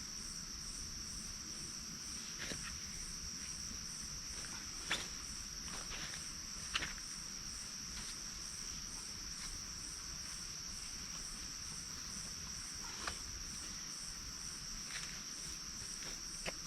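Night insects such as crickets calling: one steady high trill with a second high call pulsing about twice a second. A few soft knocks and rustles sound now and then, the loudest about five and seven seconds in.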